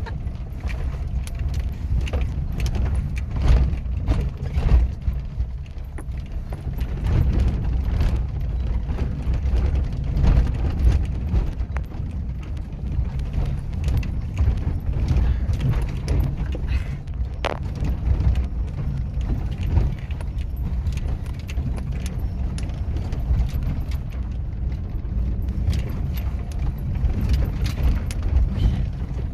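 Small vehicle driving over a bumpy dirt road, heard from on board: a steady low rumble with constant rattling and knocking from the jolts.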